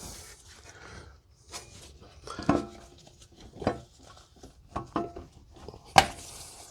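Metal parts and hand tools clinking and knocking during work on the car's front suspension and half shaft: a handful of separate clinks, some with a short metallic ring. The loudest is about six seconds in.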